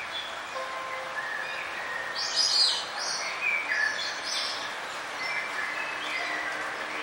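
Several songbirds chirping and trilling over a steady hiss of outdoor background noise, with a loud burst of quick high chirps about two seconds in and another around four seconds.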